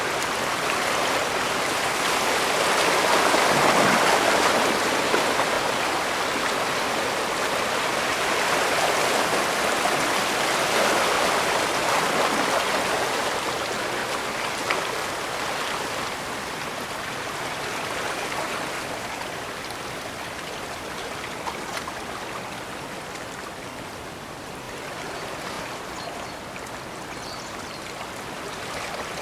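Water rushing steadily, swelling a few seconds in and again around ten seconds, then gradually easing.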